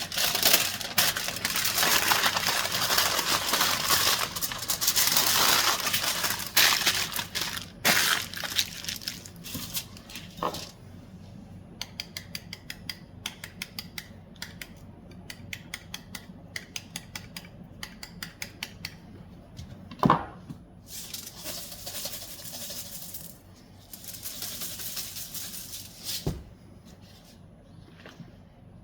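Crinkling and rustling from handling wrapping or packaging while preparing food, then a long run of quick light clicks and taps, with a sharp knock about two-thirds of the way through and two more short spells of crinkling near the end.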